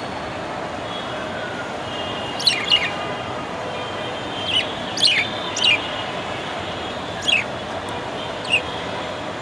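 Budgerigar giving short, sharp chirps that fall quickly in pitch, about seven of them spaced irregularly, over a steady background hiss.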